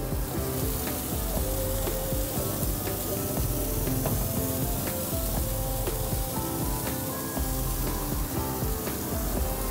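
Vegetables sizzling in a large flat wok, a steady hiss, under background music with short held notes.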